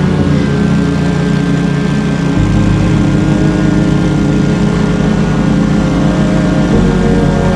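Lawn mower engine running steadily, its low note shifting about two and a half seconds in and again near the end.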